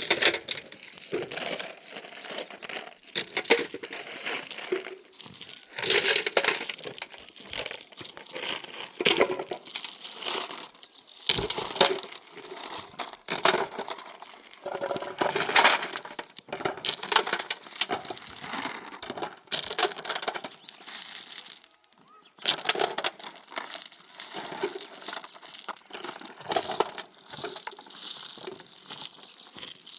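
Irregular crinkling and rustling, in uneven bursts with scattered clicks, pausing briefly twice.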